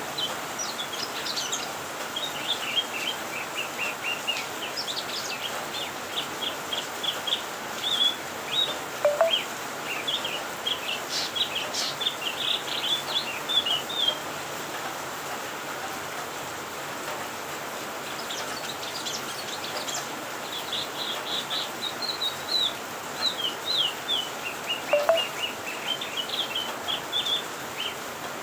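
A cucak kinoi singing in two long bouts of rapid, varied chirping and twittering notes, with a pause of a few seconds in the middle, over a steady background hiss.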